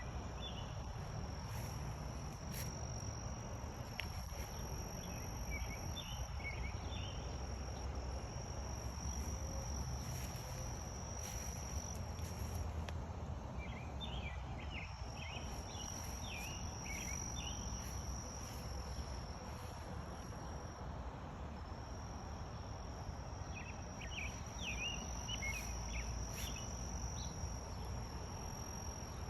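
Outdoor insects trilling in a steady high-pitched drone that drops out briefly now and then. Three short runs of quick chirping calls come and go, over a low background rumble.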